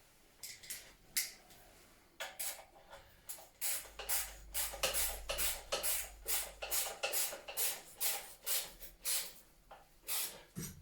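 Rhythmic scraping strokes, about two to three a second, beginning about two seconds in and stopping near the end.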